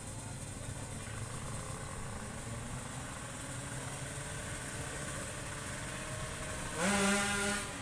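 Two-stroke drag bikes running in the distance, then near the end one engine close by revs up sharply, holds a high pitch for under a second and cuts off.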